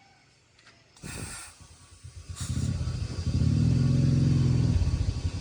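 Old jeep's engine starting: a short clatter about a second in, then the engine catches about two to three seconds in and runs loudly, the revs dipping briefly near the end.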